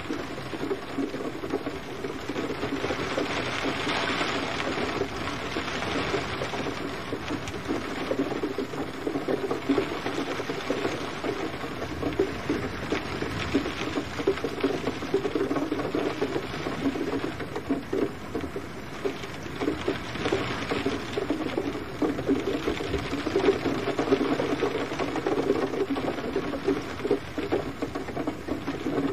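Steady rain, a dense, even patter of drops falling on a surface.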